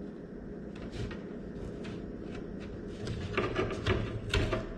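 Light knocks, clicks and rubbing from parts being handled and test-fitted inside a wooden kayak hull, getting busier about three seconds in.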